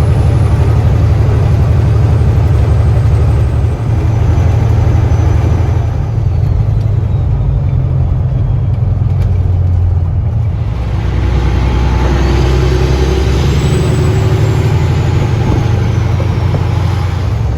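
Heavy diesel engine running with a steady low rumble, a rise in higher-pitched noise from about eleven seconds in.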